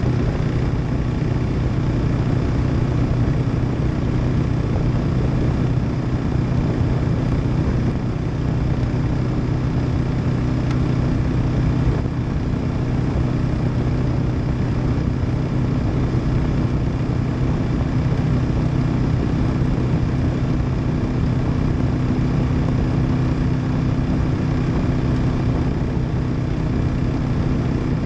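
Kawasaki KLR650's single-cylinder four-stroke engine running at a steady cruising speed with no gear changes, under a steady rush of wind and road noise.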